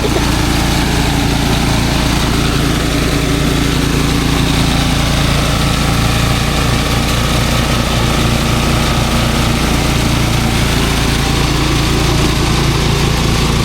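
Engine-driven rice threshing machine running steadily under load, a constant motor drone with the machine's churning over it.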